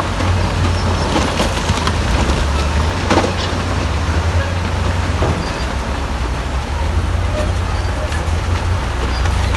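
Heavy earthmoving machinery at work: a deep, steady diesel engine drone with scattered knocks and rattles, one louder knock about three seconds in.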